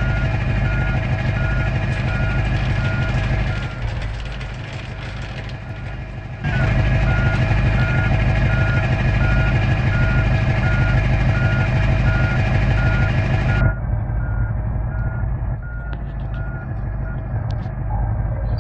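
Truck engine running with a reversing alarm beeping at an even pace. The sound changes abruptly several times, as between spliced clips, and turns duller about three-quarters of the way through, with the beeping stopping shortly before the end.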